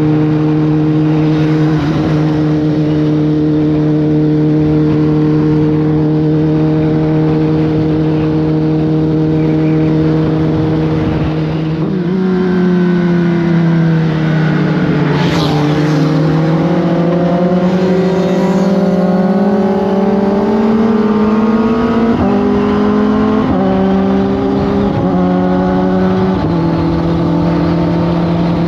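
Kawasaki Ninja ZX-10R inline-four engine running under way, holding a steady drone at constant revs for about twelve seconds. Then the pitch dips and climbs again, with a brief rush of noise partway through and several sudden steps in pitch near the end, like gear changes.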